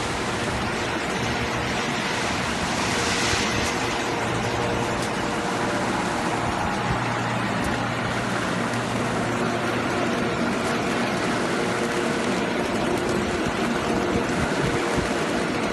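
Fruit and vegetable washing machine running: steady rushing and splashing of water over the produce, with a low motor hum underneath.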